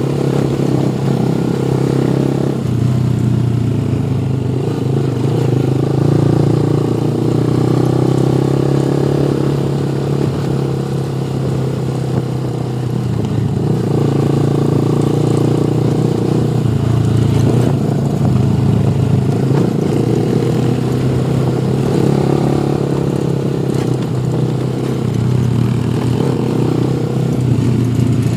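Motorcycle engine running while riding, its note swelling and easing every few seconds with the throttle, over steady road and wind noise.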